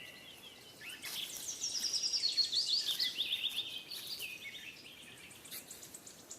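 A small bird singing: a rapid run of short, high notes that steps steadily down in pitch, starting about a second in and lasting about three seconds, followed by a few fainter notes.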